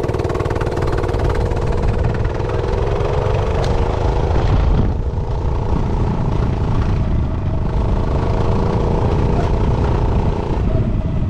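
Realtree RT100 minibike engine running while riding. Its pitch climbs gently, drops about halfway through, then holds steady, over a heavy low rumble of wind on the microphone.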